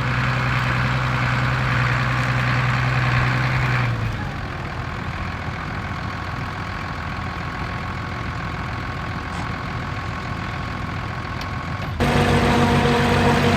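Heavy vehicle engines running steadily; the sound changes abruptly about four seconds in, becoming quieter, and again about twelve seconds in, becoming louder, as one engine gives way to another.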